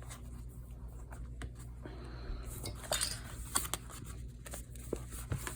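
Light scattered clicks and taps of hands handling a sewn paper journal while tying off the binding thread in knots, with a few sharper clicks in the second half.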